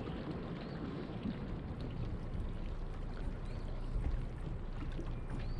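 Steady rush of wind and lapping water, with wind buffeting the microphone in low rumbles and a low thump about four seconds in.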